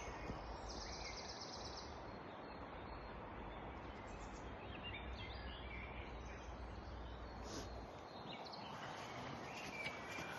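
Woodland ambience: faint songbirds chirping, with a rapid high trill about a second in, over a steady background hiss and a low rumble.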